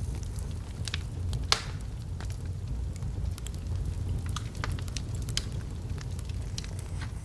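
Wood fire burning in a fireplace: a steady low rumble with irregular crackles from the logs, and one louder pop about a second and a half in.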